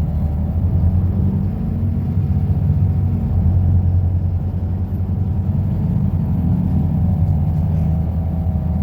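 Volvo B250RLE bus's Euro V diesel engine running with a steady low rumble and a faint higher steady tone above it.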